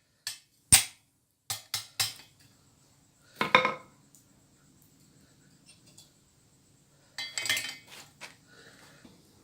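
A few sharp metal-on-metal clinks and taps at uneven intervals, with one louder ringing strike about three and a half seconds in: steel being tapped and worked to free a slug stuck in a punched hole.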